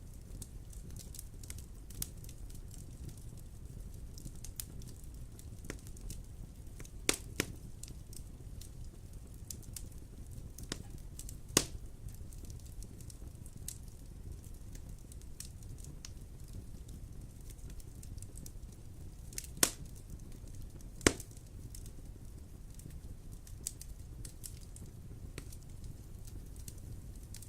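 Wood fire burning in a fireplace: steady crackling over a low rumble, with a handful of sharp, louder pops scattered through it, two close together about seven seconds in.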